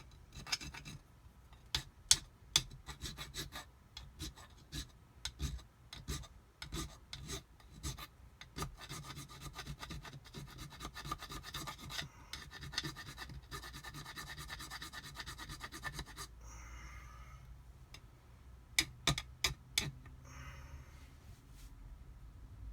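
A hand file rasping on a metal part of a Kawasaki JS800 jet pump, taking off damage in quick repeated strokes for about sixteen seconds. A few sharp taps follow near the end.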